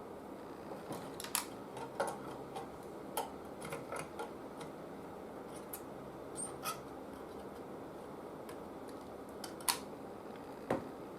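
Scattered light clicks and snips of small hand tools working on a TV chassis, irregular and bunched in the first few seconds, with two sharper clicks near the end, over a steady low background hum.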